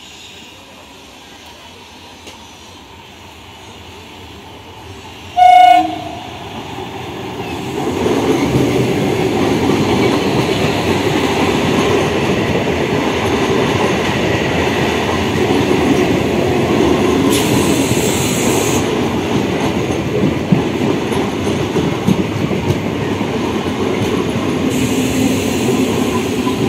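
Electric multiple unit (EMU) local train sounding one short horn blast about five seconds in, then running past close by: a loud, steady rumble with the clatter of its wheels over the rails.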